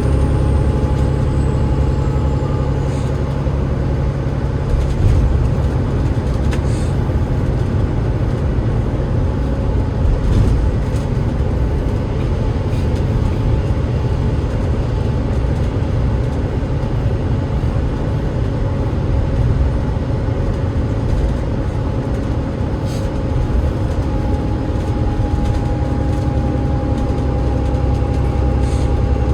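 Enviro500 MMC double-decker bus heard from on board: its Cummins ISL8.9 straight-six diesel and ZF EcoLife automatic gearbox run with a steady low drone. A faint steady whine rides over it, growing a little stronger near the end, with a few brief rattles or clicks.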